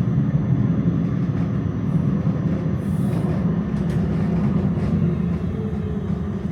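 Tram running along its tracks, heard from inside the car: a steady low rumble with a few faint clicks.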